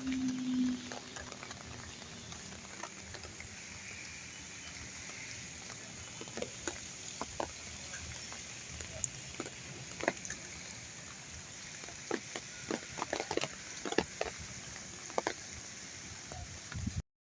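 Steady rain hissing, with scattered louder drops tapping on surfaces, more of them in the second half. A brief low pitched tone sounds in the first second, and the sound cuts off suddenly just before the end.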